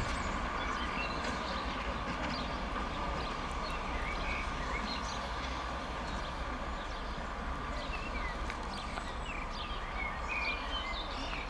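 Train of Class 73 locomotives running slowly over pointwork with a steady low running sound and wheel clatter. Birds chirp over it throughout.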